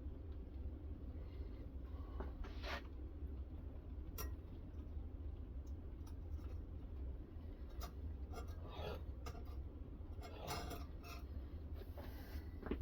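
Sharpening stone on a guided knife-sharpening system rubbing along a knife edge, with scattered short scrapes and a few sharp clicks over a steady low hum.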